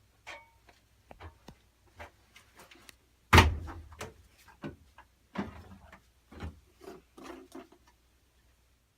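Kitchen handling noises: a series of short knocks and clatters, with one loud bang about three and a half seconds in.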